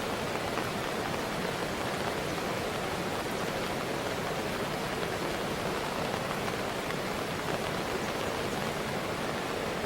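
Steady, unbroken rush of fast-flowing water from a river swollen with rain.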